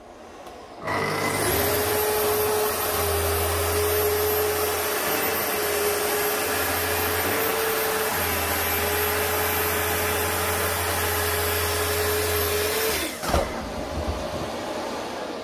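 An electric power tool motor starts with a rising whine, runs steadily for about twelve seconds, then is switched off and winds down.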